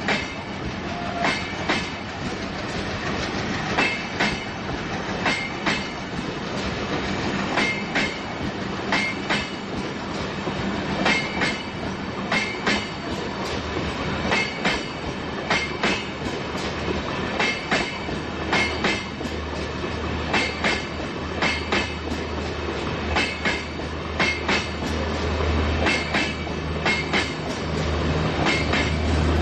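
Train wheels clattering over rail joints: an even clickety-clack of regularly repeating paired clicks over a steady rolling noise, with a low rumble building near the end.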